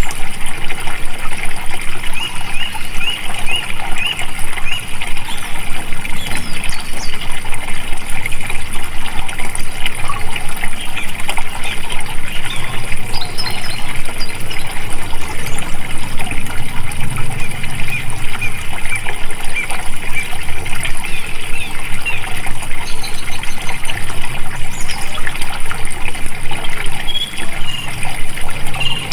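Flowing water trickling and splashing steadily, a quick uneven patter with no pauses.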